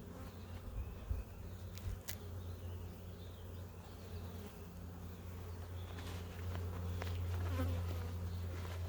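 Honeybees buzzing around an opened hive: a steady hum that grows a little louder about six seconds in.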